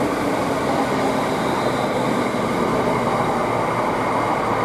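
Class 360 electric multiple unit running alongside the platform: a steady rumble of wheels and traction equipment with a faint, even whine.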